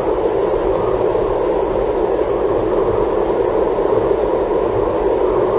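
Steady road and tyre noise heard inside the cabin of a Toyota Tank driving at highway speed, a constant rushing hum with a low rumble beneath it.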